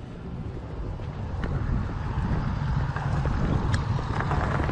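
Motorcycle riding along with its engine running low and wind buffeting the helmet-camera microphone, growing slowly louder.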